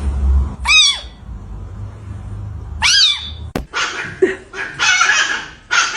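A domestic cat meowing twice, each a short high call rising and falling in pitch. After a sharp click, a series of short noisy rasping bursts follows.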